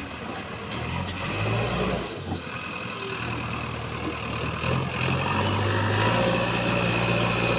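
JCB 3DX backhoe loader's diesel engine running, growing louder from about five seconds in.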